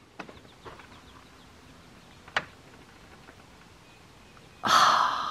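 Quiet outdoor background with faint chirps of small birds, a single sharp click about two seconds in, then a long breathy sigh near the end.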